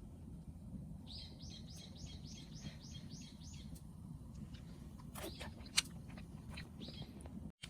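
A wild bird singing a quick trill of about a dozen repeated high notes, about four a second, over a steady low rumble. A few sharp clicks follow, one loud tap near six seconds, then another short high call.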